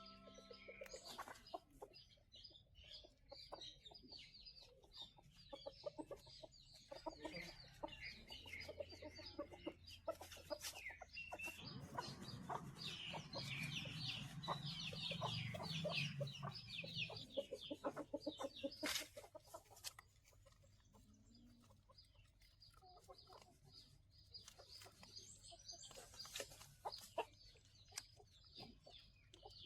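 A group of chickens clucking, with many short high calls and sharp clicks, loudest in the middle.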